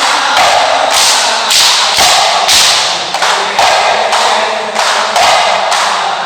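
Hadrah frame drums (terbang) struck by hand in a steady beat of about two sharp strokes a second.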